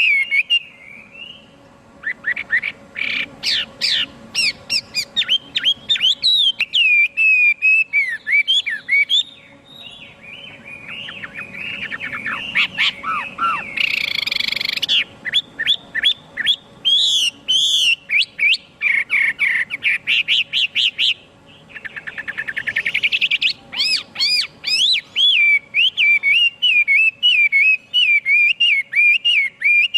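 Chinese hwamei singing a long, varied song of loud whistled phrases and quick repeated notes, broken by a few short pauses.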